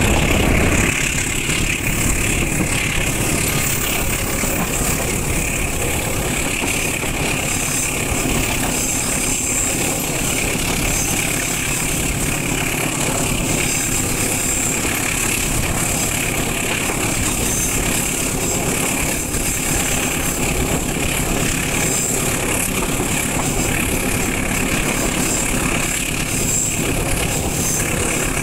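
Steady noise of a passenger train heard from inside the coach, a little louder in the first second.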